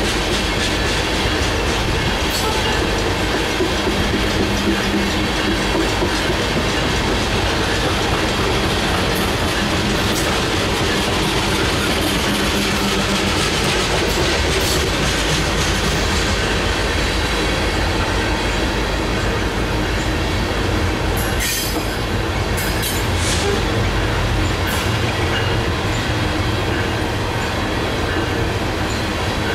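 Coal train hopper cars rolling past close by: a steady, loud rumble and clatter of steel wheels on rail. About two-thirds of the way through comes a short cluster of sharp metallic squeals and clanks.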